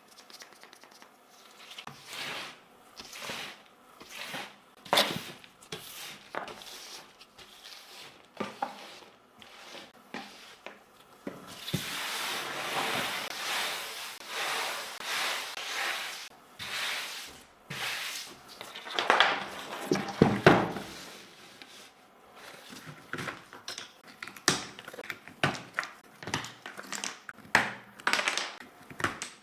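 A Fuhlen L411 keyboard being handled and cleaned: scattered plastic clicks and knocks, with a steady rubbing noise lasting several seconds in the middle and a quicker run of clicks near the end.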